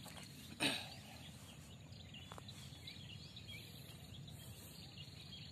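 Faint outdoor ambience with birds chirping quietly in the background, and a brief rustling scrape about half a second in.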